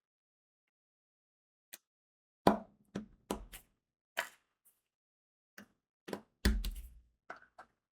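Diamond painting work: crystal drills being tapped onto the sticky canvas with a drill pen, a string of about a dozen separate clicks and light taps. Two louder knocks with a dull thud come about two and a half and six and a half seconds in.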